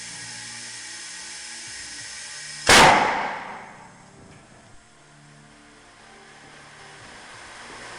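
Compressed air hissing steadily, then a single loud blast as the bead bazooka dumps its air charge into the truck tyre to seat the beads, the rush of air dying away over about a second and a half. A softer hiss of air filling the tyre follows and grows slightly toward the end.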